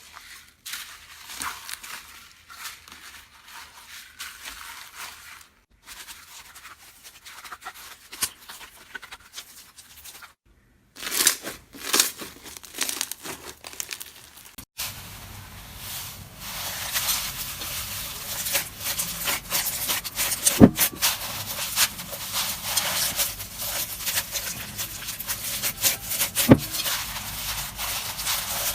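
Hands squishing, stretching and poking slime, with close-up crackling, popping and sticky tearing sounds. It comes in several short takes broken by abrupt silent cuts, the longest and densest in the second half.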